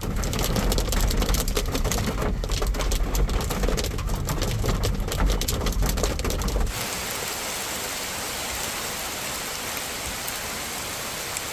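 Hailstones hitting a hard surface as a dense rapid clatter of sharp clicks over a low wind rumble. After about seven seconds it cuts abruptly to the steady, even hiss of heavy rain.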